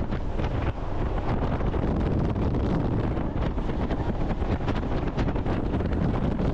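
Wind buffeting the microphone on a jet boat running at speed, over the boat's engine and the rush of water. Steady throughout, with a gusty flutter.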